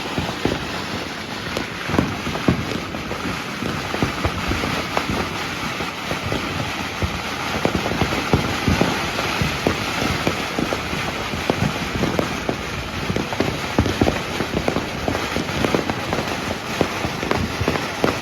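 Fireworks and firecrackers going off nonstop: many overlapping bangs and crackles, several a second, over a steady hissing rumble.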